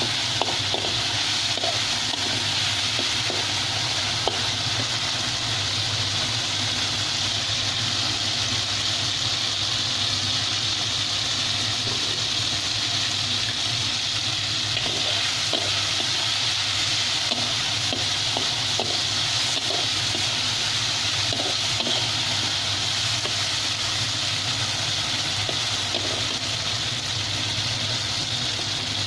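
Long beans frying in a steel wok, a steady sizzle as the water in the pan cooks off, with occasional scrapes and taps of a metal spatula against the wok.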